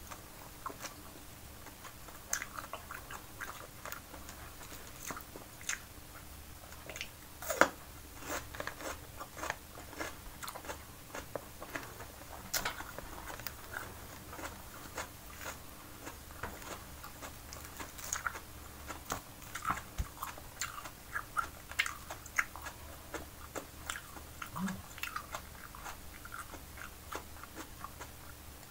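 A person chewing and biting food close to the microphone: wet mouth clicks and scattered crunches at an irregular pace, some of them from bites of raw red bell pepper.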